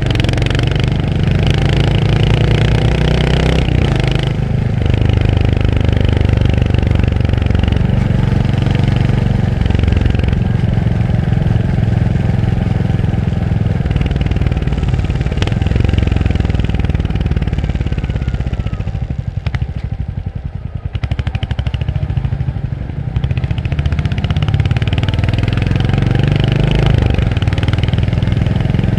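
Royal Enfield Hunter 350's 349 cc single-cylinder engine running on the road, pitch climbing as it revs up through the gears. About two-thirds through it eases off and runs quieter for a few seconds, then pulls up through the revs again.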